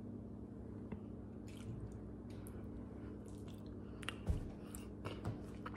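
Soft, wet mouth sounds of someone chewing a mouthful of guacamole, with a few small lip smacks, over a low steady hum.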